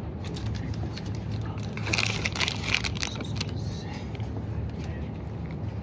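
Supermarket background sound: a steady low hum with scattered clicks. About two seconds in comes a louder stretch of rattling and crinkling that lasts a second or so.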